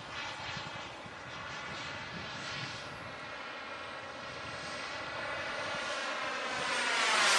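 RC model jet's gas turbine engine running while the plane flies its circuit: a steady rushing whine, growing louder toward the end as the jet comes closer.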